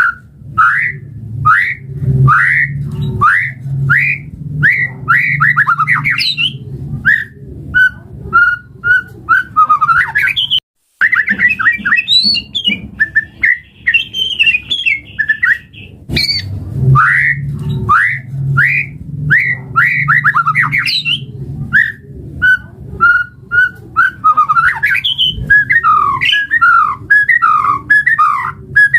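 White-rumped shama (murai batu) singing: a fast, continuous run of loud sweeping whistles and chattering notes, over a steady low hum, with a brief break about eleven seconds in.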